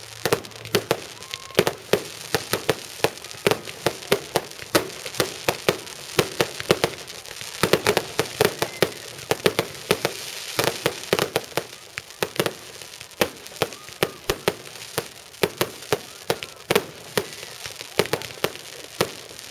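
Rapid barrage of firework bangs, several a second, over a continuous crackling hiss.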